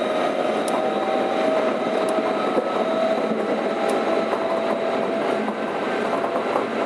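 Keikyu 600 series electric train running at speed, heard from inside a motor car: steady rolling noise under a steady whine from its Toyo Denki VVVF traction equipment, with a few faint clicks of wheels over rail joints.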